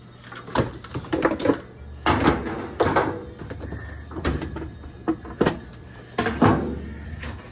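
Irregular knocks and clunks of metal and plastic parts being handled inside a Samsung washer cabinet while its suspension rods are fitted, over a low steady hum.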